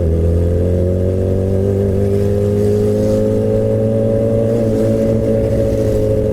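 Suzuki GSX-R600 (K7) inline-four with a straight-piped exhaust and no catalytic converter, running under way at steady revs. Its pitch rises slightly over the first two seconds, then holds.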